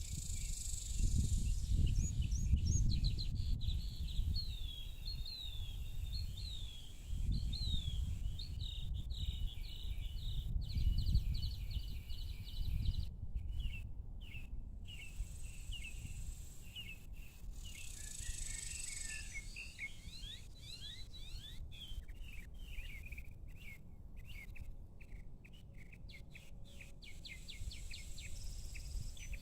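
Small birds chirping in the evening, a steady run of quick, repeated sliding notes, over a low rumble that swells and fades.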